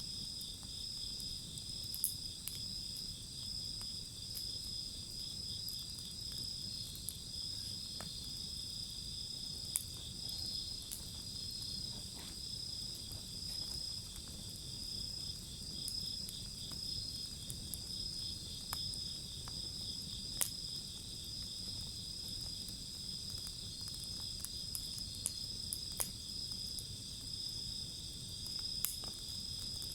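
Crickets and other insects trilling steadily and high-pitched, with a wood fire crackling underneath and giving a sharp pop every few seconds.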